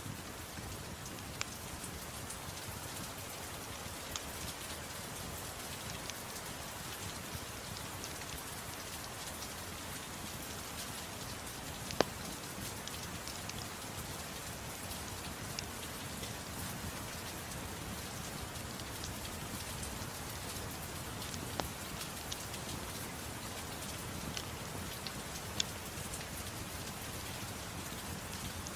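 Steady gentle rain mixed with a fireplace crackling, with sharp pops from the fire now and then; the loudest pop comes about twelve seconds in.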